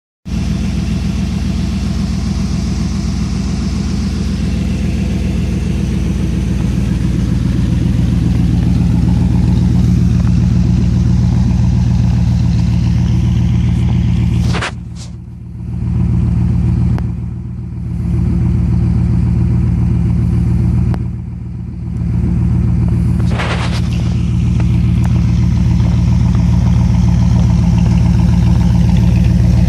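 1995 Pontiac Trans Am's LT1 5.7-litre V8 running steadily on a cold start. The sound drops away briefly three times in the middle.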